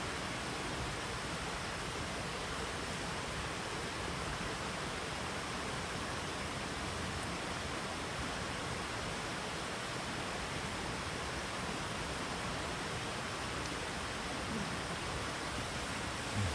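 Steady, even rushing of water with no breaks, a brief low thump just before the end.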